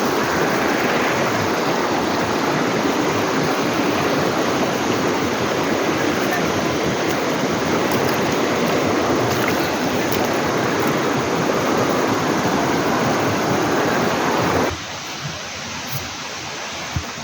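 Loud, steady rushing of a forest stream's running water. It cuts off suddenly about fifteen seconds in, leaving a much quieter background with a few faint taps.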